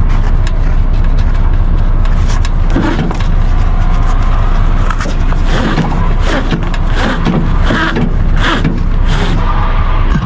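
Semi truck's diesel engine running, a steady low drone, with other brief, unclear sounds over it.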